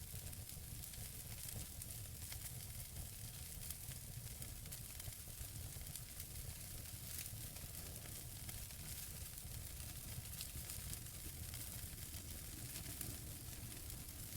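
Wood fire burning in a fireplace: a steady soft hiss with irregular small crackles and pops from the burning logs.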